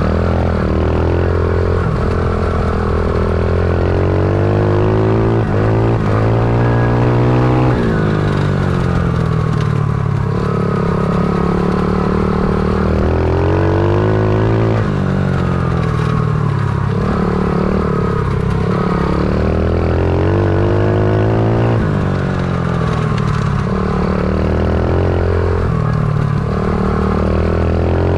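Stomp pit bike's small single-cylinder four-stroke engine being ridden hard: it revs up, drops back as the rider eases off or shifts, then climbs again, over and over.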